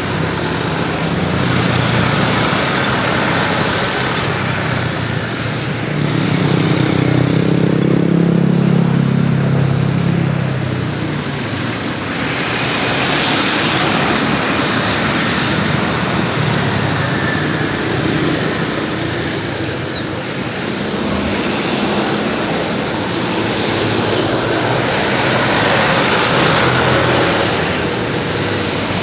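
Steady road-traffic noise with passing vehicle engines, one passing loudest between about six and ten seconds in.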